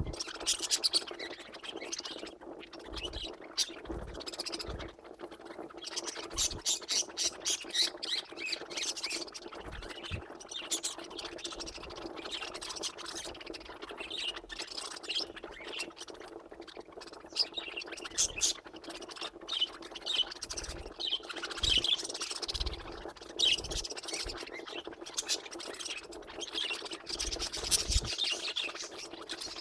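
Budgies (budgerigars) chattering with a stream of short chirps and squawks, including a run of rapid repeated notes about six seconds in, over a steady low hum.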